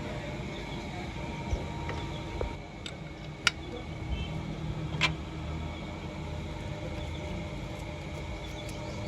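Steady low background hum with a few sharp clicks of hand tools on metal parts, the loudest about three and a half seconds in.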